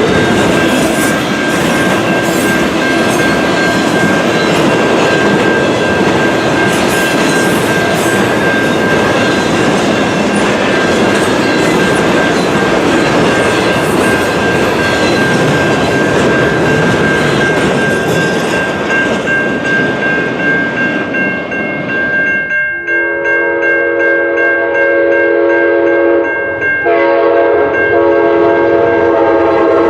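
A train rolls by with loud, steady wheel-and-rail noise. About two-thirds of the way through, its multi-note air horn sounds a long blast, breaks off briefly, and sounds again near the end.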